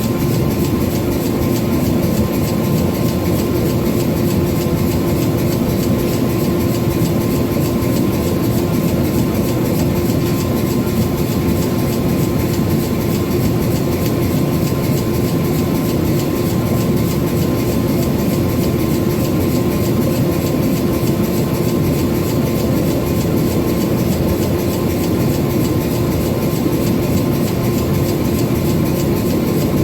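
Power hammer running and striking hot 5160 steel in a fast, continuous rhythm, over a steady machine hum.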